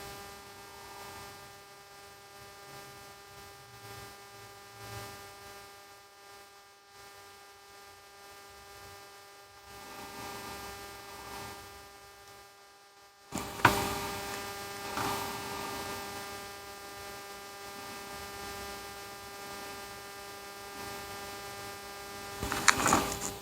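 Steady electrical hum made of several even tones, with a sharp click about halfway through, after which the background grows louder, and a few more clicks near the end.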